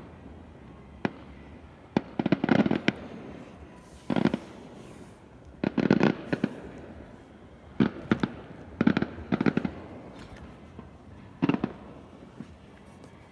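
Fireworks exploding overhead: sharp bangs in quick clusters, each group a second or two apart, with crackles between them. The last group is about a second and a half from the end.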